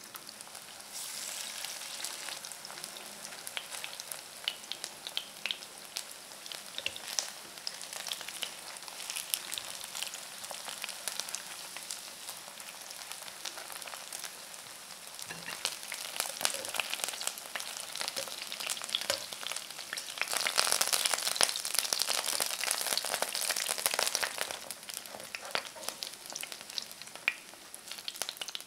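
Starch-coated chicken leg pieces shallow-frying in hot oil in a pan: a steady sizzle full of small pops and crackles. It swells louder for a few seconds about two-thirds of the way through.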